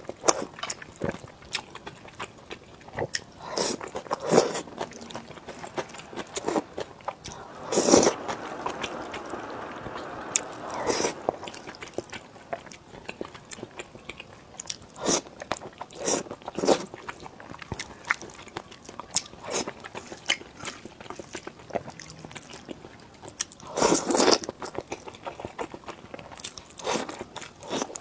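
Close-miked eating: bites and chewing with irregular crunches, the loudest bursts near the middle and about three-quarters of the way through.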